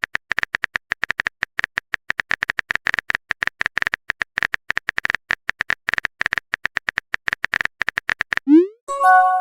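Keyboard typing sound effect: rapid, irregular taps, several a second, as a chat message is typed out. Near the end a short rising swoop and a brief chime of a few steady tones mark a message being sent.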